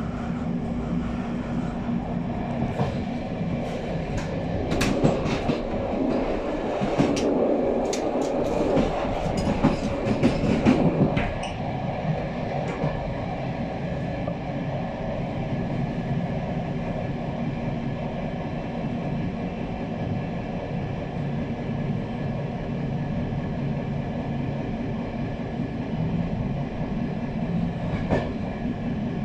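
Passenger train carriages running along the track: a steady rumble with wheels clattering over the rails. For about the first ten seconds there is louder clattering with sharp clicks, then it settles back to an even run.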